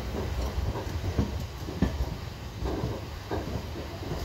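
Express train coach rolling into a station, heard from its open doorway: a steady low rumble of wheels on rail with irregular clacks and knocks from the wheels and couplings.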